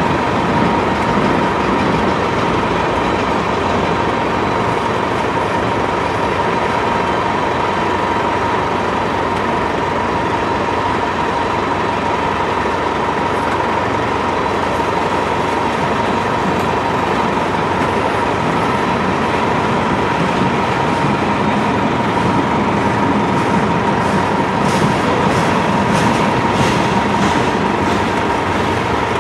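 Freight train tank cars rolling past close by: a steady rumble of steel wheels on the rail with a constant high ringing tone over it. A run of sharp clicks comes near the end.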